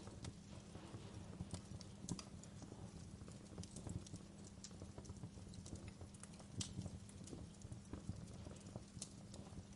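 Wood fire in a fireplace crackling: irregular sharp pops and snaps, a few louder ones scattered through, over a steady low rumble of the flames.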